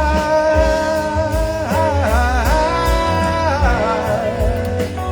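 Live rock band playing a slow ballad: a singer holds a long note over electric guitar, bass and drums. The pitch dips and wavers about two seconds in, then settles on another held note.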